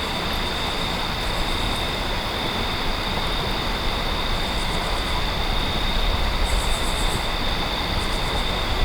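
Steady rushing noise, with a few short runs of faint, rapid high ticking, the clearest about six and a half seconds in.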